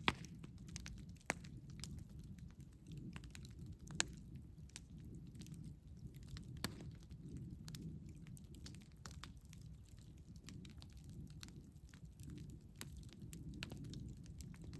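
Campfire burning: a steady low rumble with frequent sharp crackles and pops of burning wood, a few of them much louder than the rest.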